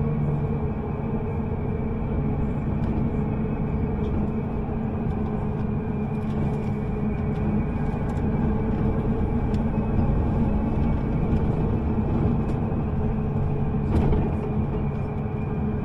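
Steady engine hum and road rumble inside a moving bus, the engine note shifting partway through, with a short knock near the end.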